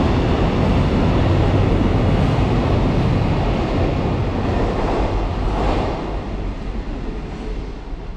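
Container freight train passing close by at speed: a loud, steady rumble of wheels on rail that fades as the last wagons draw away, about six seconds in.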